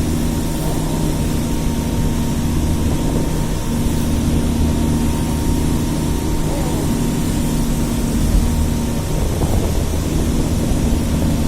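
A steady engine hum over a low rumble, dipping briefly twice.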